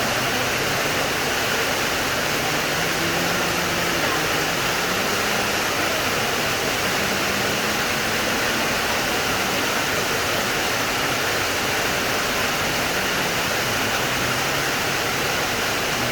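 Steady rain pouring down, a loud even hiss with no let-up.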